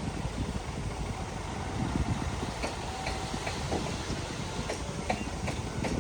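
Shantui DH17 bulldozer's diesel engine running under a low rumble, with several sharp metallic clanks in the second half, typical of steel crawler tracks.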